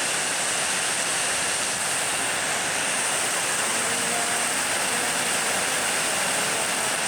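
Heavy storm rain pouring down in strong wind, a steady, even rush of noise.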